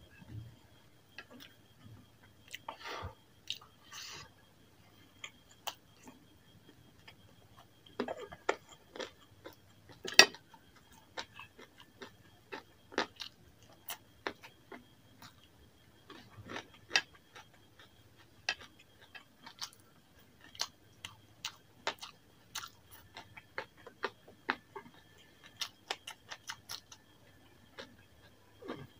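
Close-miked chewing of curry and rice: irregular wet mouth clicks and smacks, several a second at times, the loudest about ten seconds in.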